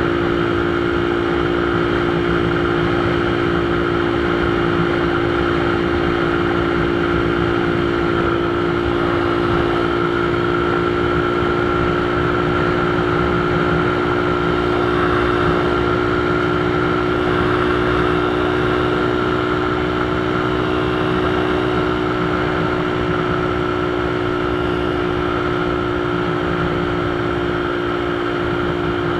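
Motorcycle engine running at a steady speed while riding, a constant engine tone over road and wind noise.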